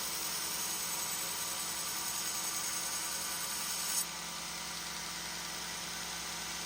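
Grinder running steadily as a steel chef-knife blade is rough-ground, a continuous hiss of abrasive on steel over a motor whir. About four seconds in there is a brief sharp spike, after which the sound is a little quieter with less hiss.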